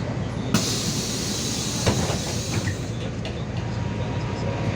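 Steady drone of a MAZ 216.066 city bus running, heard from inside. A sharp knock about half a second in opens a loud hiss that lasts about two seconds, with another knock near the two-second mark.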